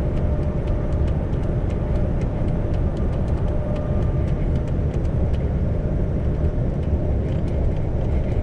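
Isuzu GIGA heavy truck running, a steady low rumble of diesel engine and road noise with a faint steady whine and scattered light clicks.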